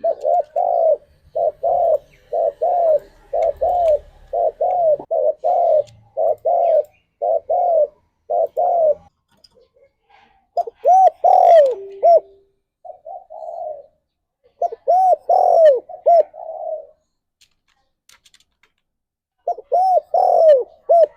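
Spotted dove cooing: a fast run of repeated arched coos, about two a second, for the first nine seconds, then phrases of three or four coos separated by pauses of a second or two.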